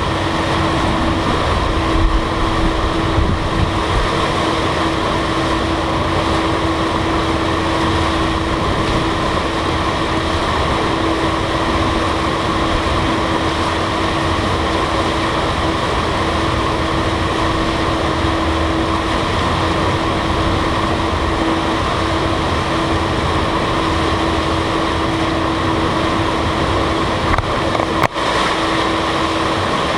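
Steady drone of a car ferry underway, a constant hum tone over a broad rush of engine, wind and water noise.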